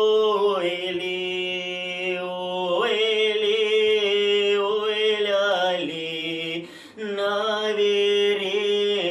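A man singing a Russian wedding folk song a cappella, drawing each syllable out into long held notes, with a quick breath about seven seconds in.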